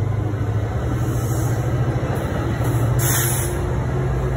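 Multilevel commuter coaches rolling past close by: a steady rumble of wheels on rail with a steady low hum underneath, and a brief hiss about three seconds in.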